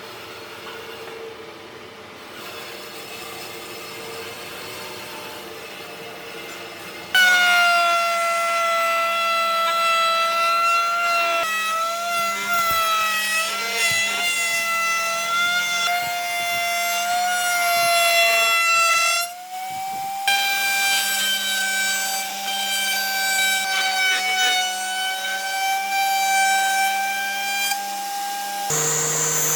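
Woodworking power tool running under load, a loud, steady high whine whose pitch wavers slightly. It starts abruptly about seven seconds in and shifts pitch abruptly around twenty seconds.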